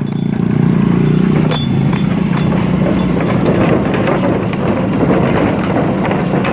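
Vehicle engine running steadily as the vehicle drives on, with a hiss of road noise above it.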